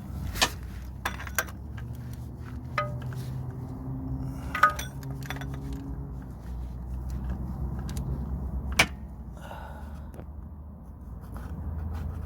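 Metal clinks and sharp taps, several spaced a second or more apart, the loudest about halfway through, over a low steady hum.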